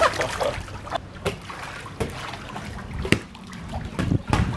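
Swimming-pool water splashing and lapping, with a few sharp, irregular knocks of a ball being hit back and forth in a rally.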